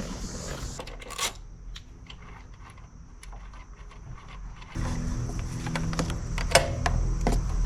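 Scattered light metallic clicks and rattles of keys or hand tools as a motorcycle seat is unlatched and taken off, with one sharper click about a second in. A steady low hum comes in suddenly a little past halfway.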